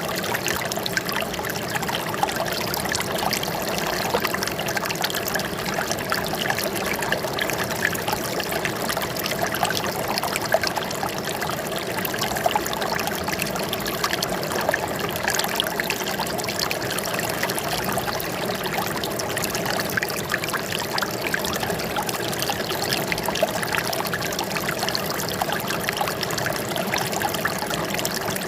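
Flowing water trickling and splashing steadily, with a dense patter of small splashes and no change.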